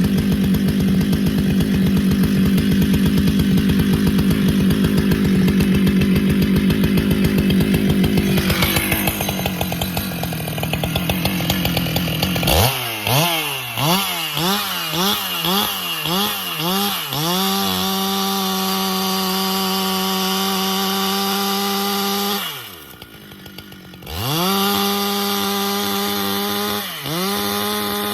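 Husqvarna chainsaw running at full throttle, cutting through a pecan round. From about halfway its engine note dips and recovers again and again as the chain bites into the wood, then holds high and steady. It drops off briefly a few seconds before the end and then comes back up.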